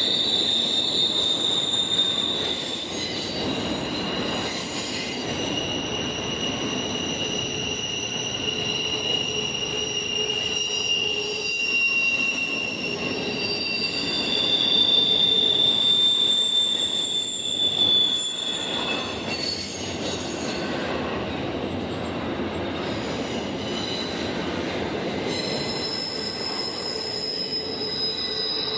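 Train cars rolling past with their wheels squealing against the rails: several high, steady squeal tones that shift to new pitches every few seconds over a continuous rumble.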